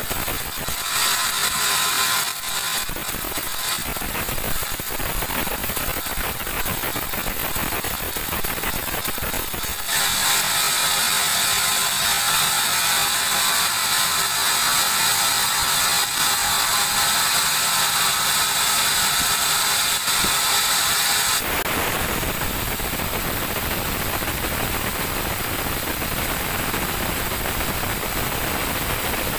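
Large sawmill band saw running and cutting a teak log, a steady mechanical noise. About a third of the way in a brighter, higher-pitched whine comes in and holds for about eleven seconds before stopping abruptly.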